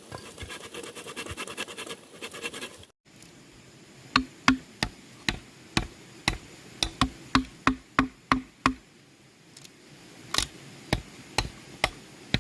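Hammer blows on bamboo, struck about three times a second, each with a short hollow ring. They pause briefly and then start again. The blows come after a few seconds of rasping scraping and a short break.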